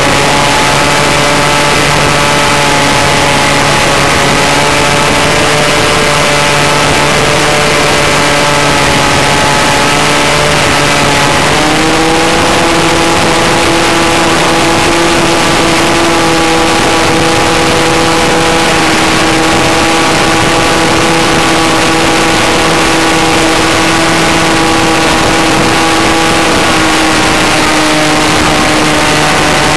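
Falcon 56 RC model airplane's engine running in flight, heard from a camera on the plane, with wind rushing over the microphone. Its steady pitch steps up about twelve seconds in as the throttle is opened, then eases down slightly near the end.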